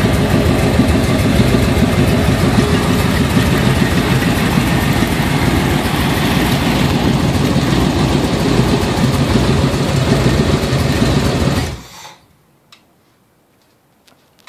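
V8 engine on a test stand, exhausting through headers into a pair of mufflers, running loud and steady, then shut off abruptly about twelve seconds in. A few faint clicks follow.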